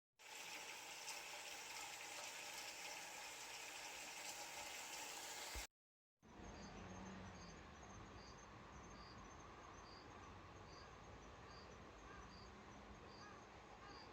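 Faint outdoor ambience cut together from two pieces: first a steady hiss, then an insect chirping at an even pace, a little more than once a second, over low background hiss.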